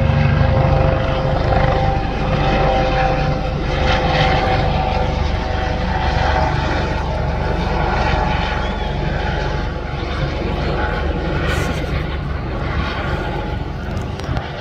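An aircraft flying over at an air show, a steady engine drone that runs throughout and eases off slightly near the end.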